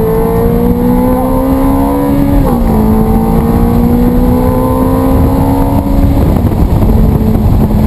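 Sports car engine pulling hard under acceleration, its pitch climbing, dropping at an upshift about two and a half seconds in, then climbing again. About six seconds in it eases off to a lower steady note, with steady road and wind noise throughout.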